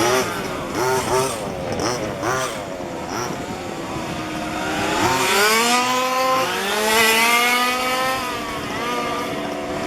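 Several 1:5-scale petrol RC cars' small two-stroke engines revving up and down as they race. Their pitches overlap and keep rising and falling, with a louder run of long rising revs past the middle.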